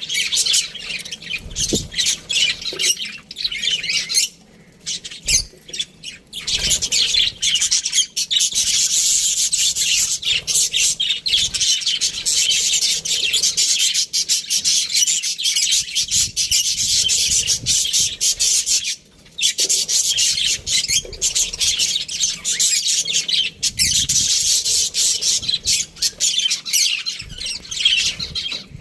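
A flock of budgerigars chirping and chattering continuously, with many overlapping rapid, high-pitched calls and squawks.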